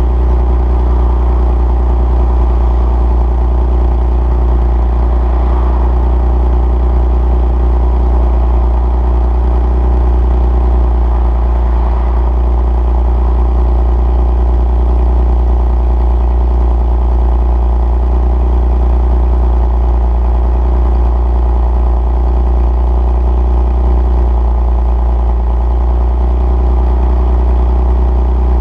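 2002 Nissan Maxima's 3.5-litre VQ35DE V6 idling steadily during warm-up after a cold start. It breathes through equal-length headers, a stock catalytic converter and a muffler, with the resonator deleted.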